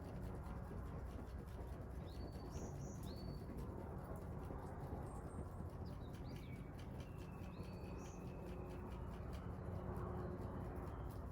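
Small birds calling in short phrases of two or three high, rising notes, twice in quick succession and again later with one longer drawn-out note, over a steady low rumble and a faint, rapid crackle of a wood fire.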